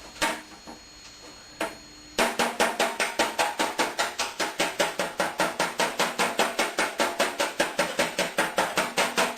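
Body hammer tapping a dent in a thin sheet-steel car fender while a backing tool is pressed hard behind it: a couple of single knocks, then from about two seconds in a fast, even run of light taps, about six a second. This is the tapping around the edge of the dent that works the metal back out.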